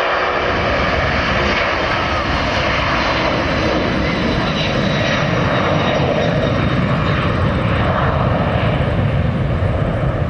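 Jet airliner engines running loud: a steady rush with a deep rumble that builds toward the end.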